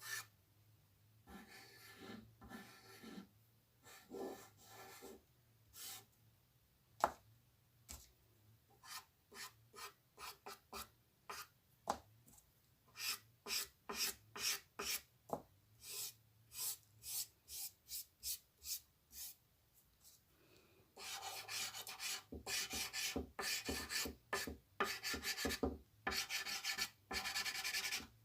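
A drawing tool scratching on paper: short separate strokes, about two a second, then a dense run of rapid back-and-forth strokes in the last third, as when shading.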